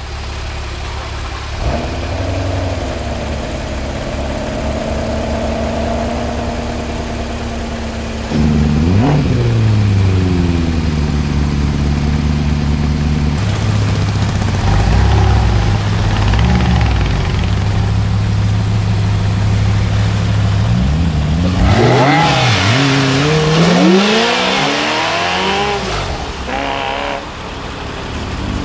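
Car engine idling, revved sharply once about nine seconds in, then blipped several times in quick succession after about twenty seconds.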